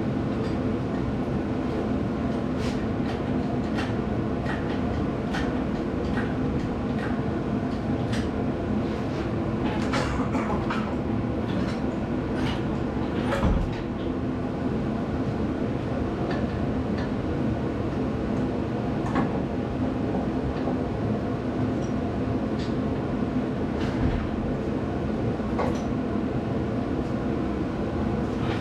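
Metal clinks and knocks of tools and parts being handled, scattered irregularly, with a heavier thump about halfway through, over a steady mechanical drone.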